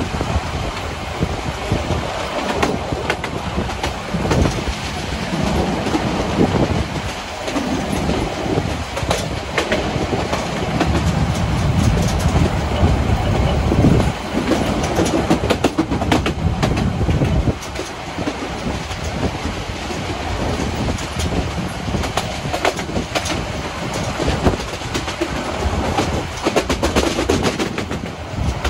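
Harz narrow-gauge steam train running along the line, its wheels clicking over the rail joints with an uneven rumble.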